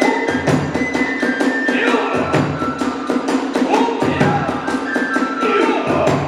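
Kagura festival music: a quick, steady beat of drum and hand cymbals under a held bamboo-flute melody, with a deeper drum swell about every two seconds.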